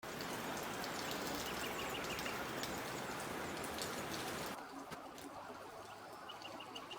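Rain falling in a steady hiss, dropping to a lower level about four and a half seconds in. A short run of quick high chirps comes twice, once in each half.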